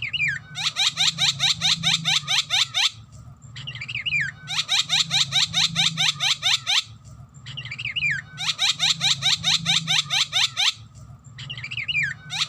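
Javan myna (jalak kebo) singing: three similar phrases about four seconds apart, each a short falling slur followed by about two seconds of fast, evenly repeated shrill notes, about nine a second.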